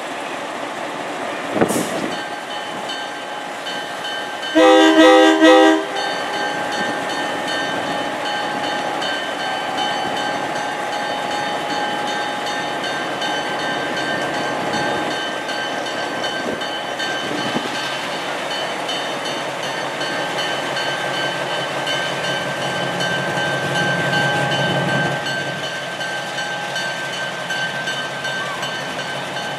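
A train horn blows once for about a second, over the steady rumble of the train rolling along the track. A sharp knock comes just before it.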